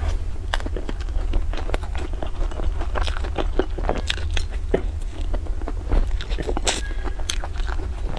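Close-miked chewing and biting into a crumb-coated, cream-filled bun: crisp crunches and soft mouth sounds, irregular throughout, over a steady low hum.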